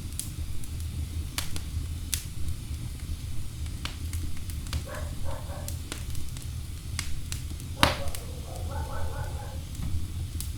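Wood fire in a fireplace crackling: irregular sharp pops and snaps of burning logs over a steady low rumble of the flames, with one louder pop near the eight-second mark.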